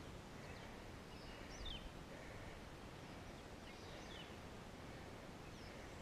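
Faint outdoor ambience with a few short, high bird chirps, each sliding down in pitch, spaced a second or more apart.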